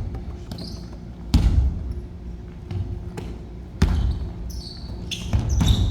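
Basketball bouncing on a gym floor in several irregular, sharp thuds, with short high-pitched sneaker squeaks near the end during play.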